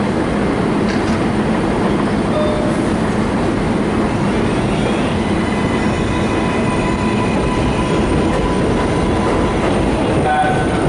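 Train running on the rails with a steady loud rumble, and a faint high wheel squeal in the middle.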